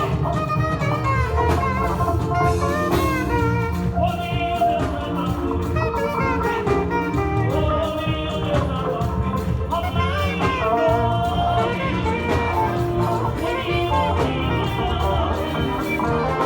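Church praise music: a band with steady bass and a singing lead melody line playing continuously.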